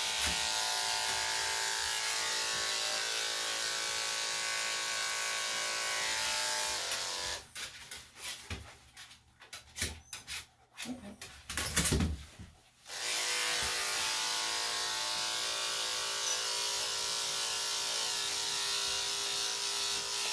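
Electric dog grooming clippers running with a steady hum. They stop about seven seconds in, and for some six seconds there are only a few knocks and clicks of handling. Then they start again and run on.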